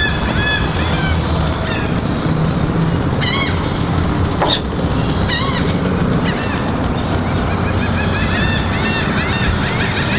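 Birds calling in runs of short rise-and-fall calls over a steady low hum and a continuous background wash.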